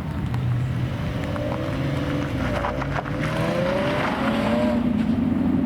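Car engines running at a car meet, a steady low rumble with one engine's pitch gliding up and down through the middle as it is revved lightly.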